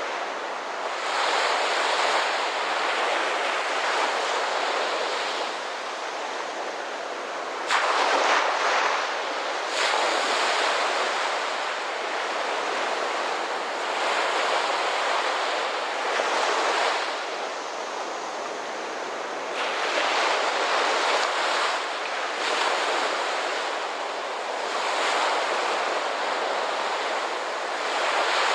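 Ocean surf: waves breaking and washing in one after another, each swelling and fading over a few seconds, with one sharper, louder break about eight seconds in.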